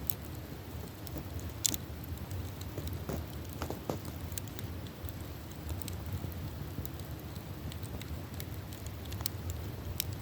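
Wood campfire crackling: scattered small pops and snaps over a low steady rumble, with one sharper pop a little under two seconds in.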